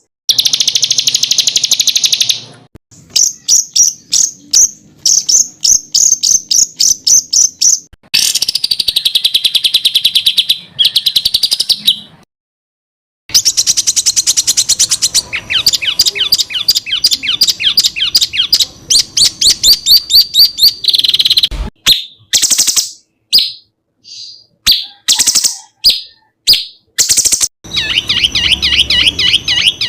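Songbirds singing rapid-fire 'tembakan' phrases: fast runs of sharp, high-pitched repeated notes and trills. They come in abruptly changing passages, with a brief silence about twelve seconds in.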